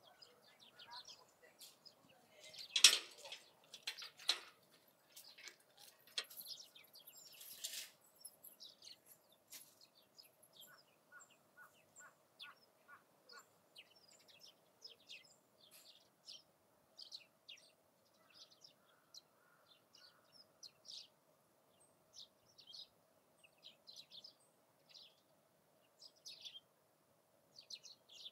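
Small birds chirping repeatedly in short, high calls. About three seconds in there is a loud clatter, with a smaller knock a second later and a brief rustle a few seconds after.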